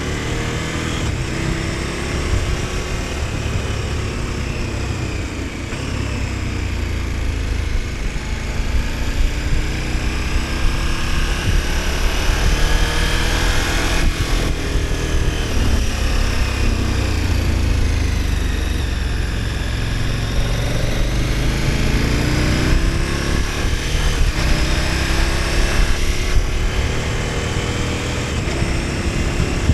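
KTM 1290 Super Adventure S's V-twin engine under way, its pitch falling and rising several times as the bike slows and accelerates, over a steady low rumble of wind.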